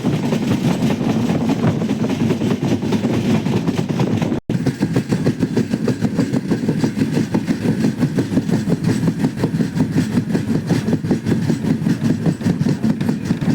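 Passenger train running along the track, a steady low rumble, broken by a momentary dropout about four and a half seconds in.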